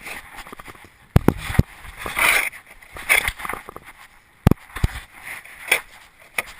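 A 1/8 scale RC monster truck bouncing over rough ground: irregular knocks and clatter, with short rushes of scuffing noise.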